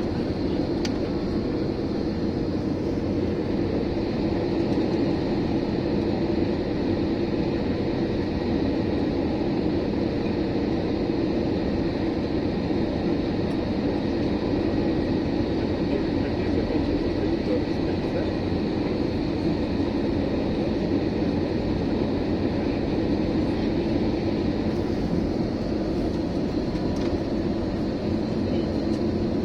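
Steady engine and airflow noise heard inside the cabin of an Airbus A321, a constant hum with faint steady tones over it and no rise or fall.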